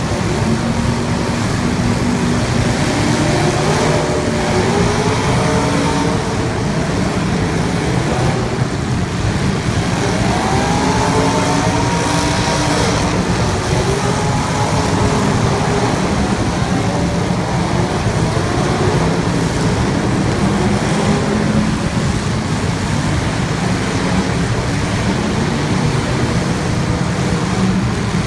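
Race vehicle engines running on a track, several engine notes rising and falling in pitch as they rev and pass, over steady loud noise.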